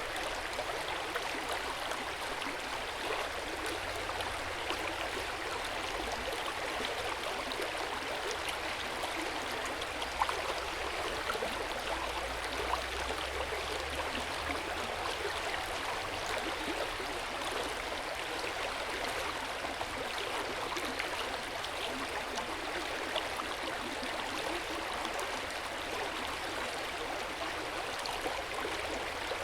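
Hot spring water pouring steadily into an open-air bath: a continuous splashing rush, with one slightly louder splash about ten seconds in.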